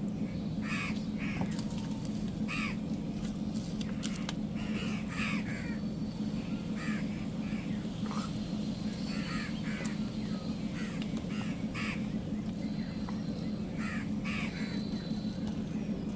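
Crows cawing repeatedly, many short harsh calls coming in irregular groups, over a steady low hum.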